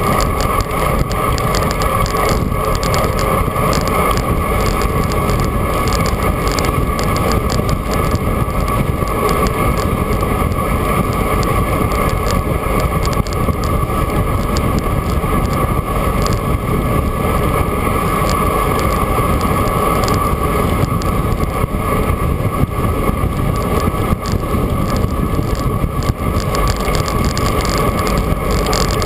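Steady wind rush over the microphone and road noise from a bicycle ride, with a constant hum over it.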